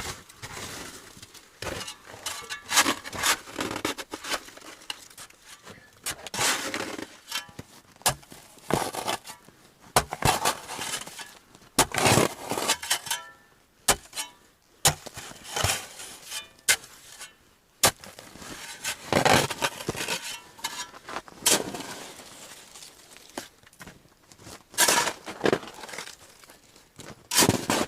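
Ice being chipped and broken up with repeated hand-tool strikes, the pieces cracking and clinking. The strikes come irregularly, several a few seconds apart, each a sharp crack.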